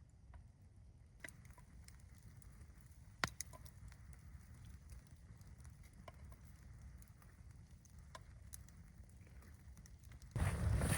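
Campfire crackling with scattered pops over a low steady rumble. Near the end a much louder scraping sound starts suddenly.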